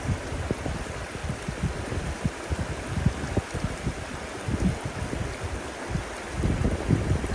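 Steady rushing hiss of running water, with irregular low rumbles of wind buffeting the microphone that grow stronger near the end.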